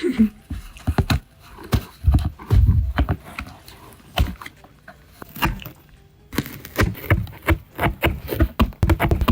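Cardboard box being bitten and torn by a cat: irregular crunches and rips, turning into a fast, dense run of crunching about six seconds in.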